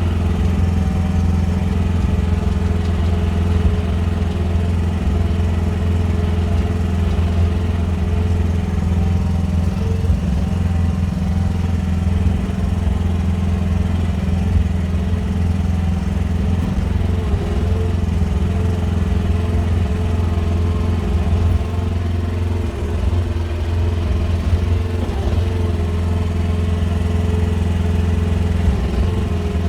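QH13R mini excavator's engine running steadily under a constant throttle, a low, even hum.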